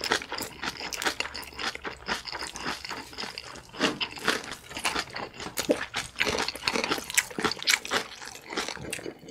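Close-up chewing and biting of kimchi-wrapped noodles, the kimchi cabbage crunching in many short, irregular crisp bites.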